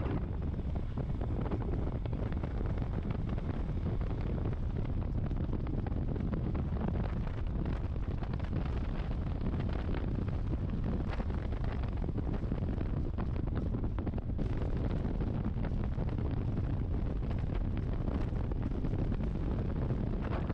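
Heavy wind buffeting the microphone on a moving motorcycle: a steady, dense low rumble with no letup.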